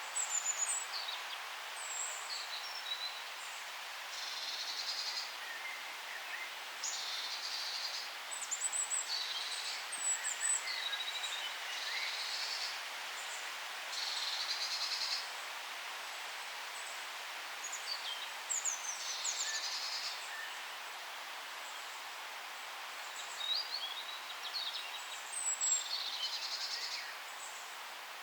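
Forest birdsong over a steady background hiss: several songbirds chirping, with a short high trill repeated every few seconds.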